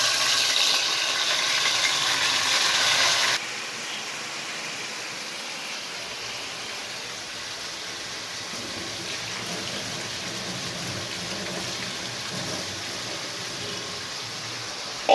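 Marinated chicken pieces sizzling as they go into a hot wok. The sizzle is loud for about the first three seconds, then drops suddenly to a steadier, quieter frying sizzle.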